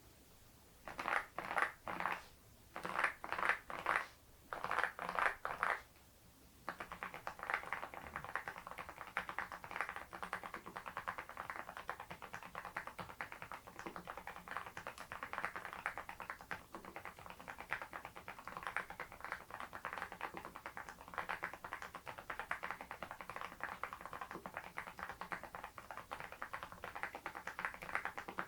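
Geekstar GKG87R tenkeyless mechanical keyboard typed on fast. Four short flurries of keystrokes come in the first few seconds, then a brief pause, then steady rapid typing.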